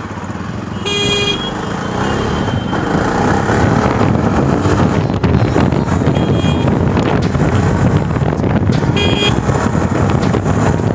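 Jawa Perak motorcycle's single-cylinder engine pulling under acceleration on the road, growing louder over the first few seconds and then holding. A vehicle horn toots briefly twice, about a second in and again about nine seconds in.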